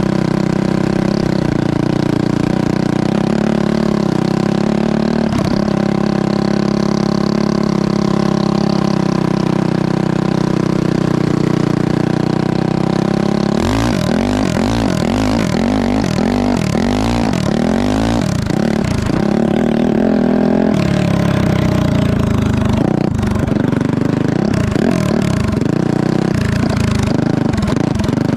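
Honda CRF450 single-cylinder four-stroke engine in a go-kart, running at a steady pitch. About halfway through it starts revving up and down repeatedly in quick swings.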